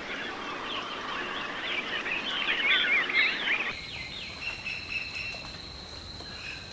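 Many birds chirping at once, a dense mass of short, overlapping high calls. About four seconds in it cuts off abruptly to a quieter scene with a faint steady high tone and a few scattered calls.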